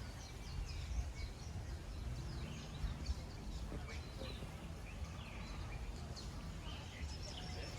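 Birds chirping and calling, many short falling chirps one after another, over a low outdoor rumble.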